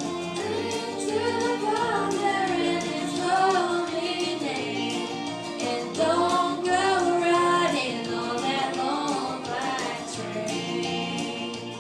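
A female vocalist singing a country-gospel song over a backing track with a steady bass line and drum beat.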